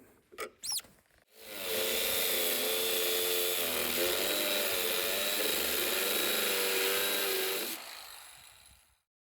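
Angle grinder spinning up and grinding through a steel anchor bolt, running under load for about six seconds with a wavering whine, then winding down.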